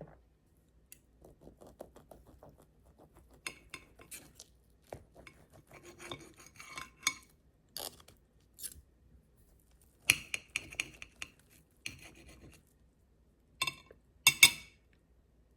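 Utensils scraping and clinking against dishes and glass in a series of short, irregular knocks and scrapes, with the loudest clinks about ten seconds in and near the end.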